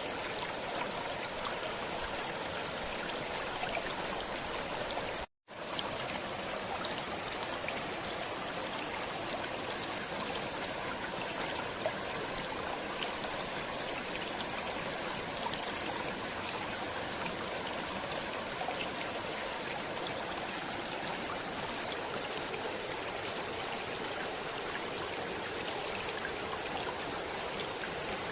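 Flowing stream water running steadily, cutting out completely for a split second about five seconds in.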